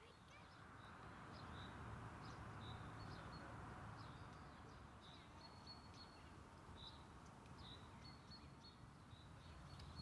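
Faint outdoor ambience: small birds chirping over and over in short high notes, above a steady low background rumble.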